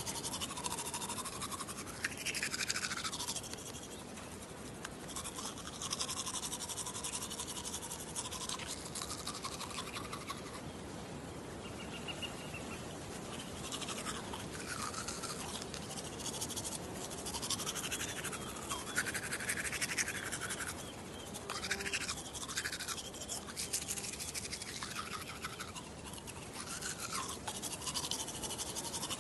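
Teeth being brushed with a toothbrush: continuous rapid scrubbing strokes of the bristles, the tone shifting as the brush moves around the mouth.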